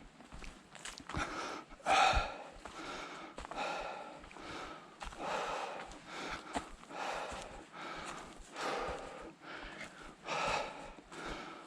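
A hiker breathing hard from the exertion of climbing, a loud breath about every one and a half to two seconds, with footsteps on the trail.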